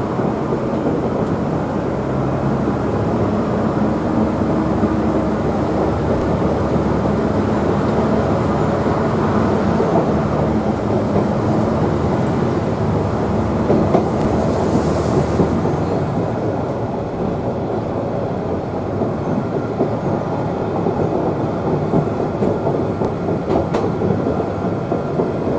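Queensland Rail 2000 class diesel rail motor running steadily along the line, with engine hum and wheels rumbling on the rails.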